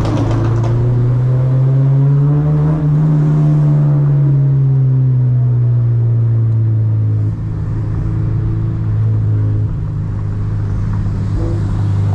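8th-generation Honda Civic Si's four-cylinder engine, with bolt-on exhaust, droning inside the cabin while cruising. The pitch rises slightly about two seconds in, then eases back down and holds steady.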